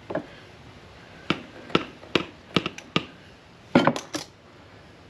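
About ten short, sharp taps and knocks at an irregular pace, with a cluster of three near the end: hand tools and parts being handled during plumbing work on a threaded pipe joint.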